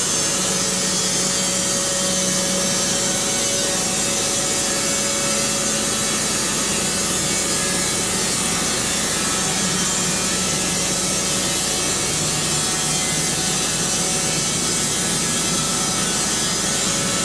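Wood-Mizer band sawmill sawing a pine log into boards. The band blade cuts steadily through the wood, with the mill's engine humming evenly underneath.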